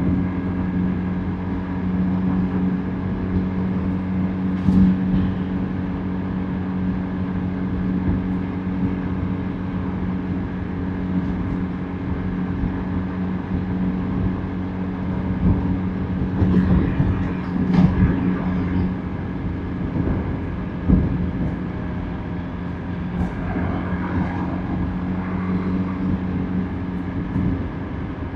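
Motorbike engine running at a steady cruising speed, with the hiss of road and wind noise; a few louder moments of passing traffic come and go, most of all around the middle of the stretch.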